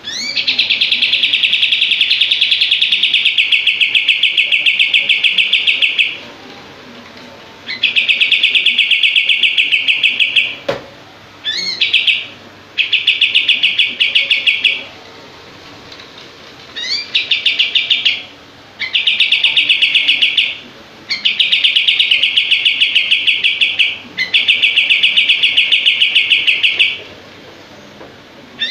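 A kapas tembak songbird singing its 'shooting' song: bursts of rapid, tightly packed notes fired like a rattle, each a few seconds long, some opening with quick rising whistles, separated by short pauses.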